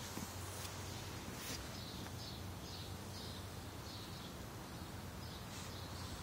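A small bird chirping over and over outdoors, short high chirps about every half second, faint over a low steady hum.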